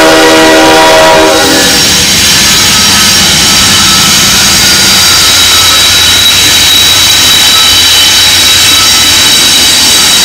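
A freight diesel locomotive's multi-chime air horn sounds and cuts off about a second and a half in. The GE diesel-electric locomotives then rumble past with a steady high-pitched wheel squeal over the engine noise.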